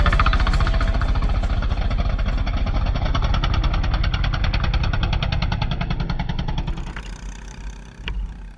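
Small racing engine running with a rapid, even firing beat, slowly fading and dropping away after about seven seconds as the vehicle moves off.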